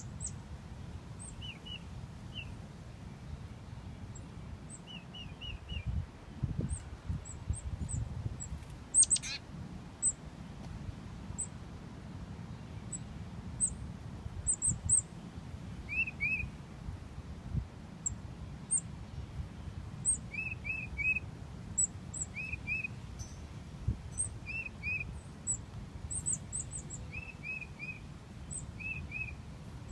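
Small songbirds calling around a bird bath: scattered short, very high chirps, and from about halfway on repeated short notes in quick groups of two to four, over a low steady rumble.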